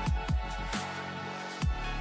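Chillstep background music with deep, falling kick-drum hits over sustained synth chords and bass.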